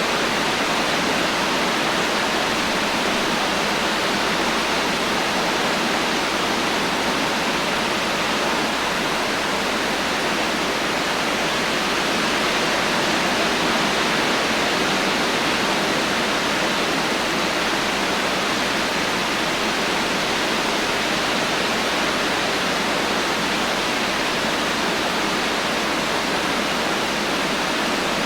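Heavy rain falling steadily, an even hiss with no thunder or other distinct sounds.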